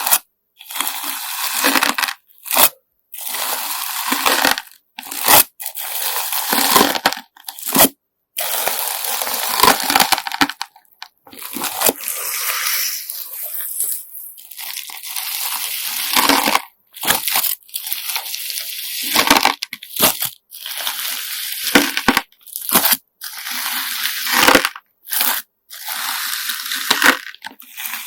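Slime mixed with coloured sand being squeezed and pressed by hand, giving repeated bursts of crunchy, gritty crackling separated by short silent gaps.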